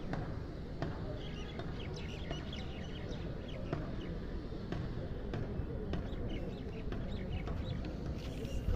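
Outdoor street ambience: a low murmur of distant voices, small birds chirping, and scattered sharp clicks and knocks.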